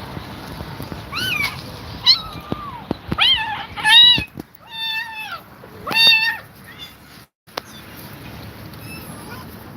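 Kittens meowing: about six high-pitched meows in quick succession over the first six or seven seconds, then a couple of fainter ones, over a steady background hiss.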